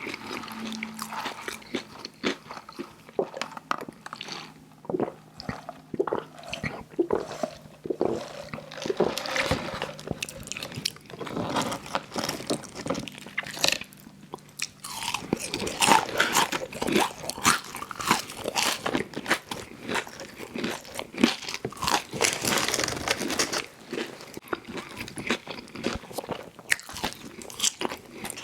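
A person biting and chewing crunchy fried food, with dense, irregular crisp crunches that grow louder and busier about halfway through.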